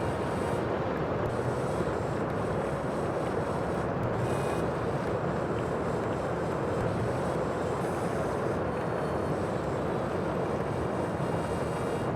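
Sea ambience: a steady, unbroken rush of waves and wind.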